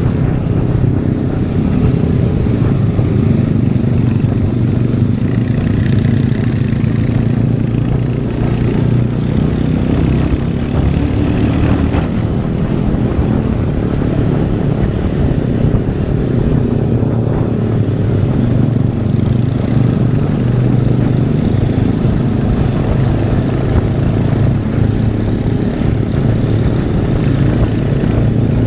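Royal Enfield Hunter 350's single-cylinder engine and exhaust running at a fairly steady pace while riding, the engine note holding nearly level throughout.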